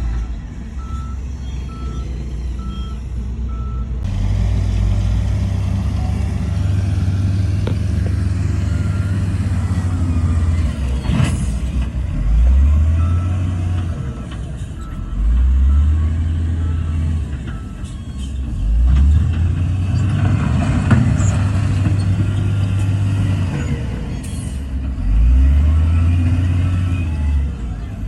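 Heavy diesel engine of a Shantui bulldozer working, with its pitch climbing again and again every few seconds as it takes load. A reversing alarm beeps in short runs at times.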